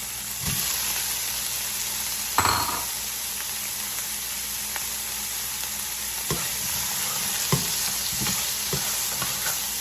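Chopped onion and yellow bell pepper sizzling in hot oil in a frying pan, stirred with a utensil that knocks against the pan now and then, loudest about two and a half seconds in.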